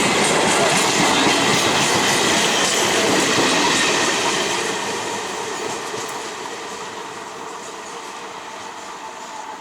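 A 12-coach electric multiple unit (EMU) local train running past on the track, loud at first, then fading steadily from about four seconds in as it moves away.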